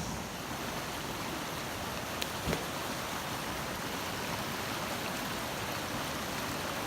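Mountain stream water rushing with a steady hiss, with two small clicks about two and a half seconds in.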